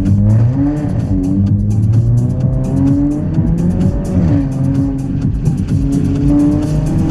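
Volkswagen Scirocco's engine and exhaust under throttle, the pitch rising and falling several times as it accelerates and eases off, with music underneath.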